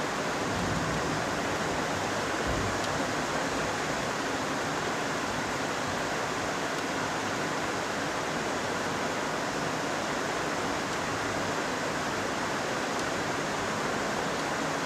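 Heavy rain falling steadily, an even unbroken downpour.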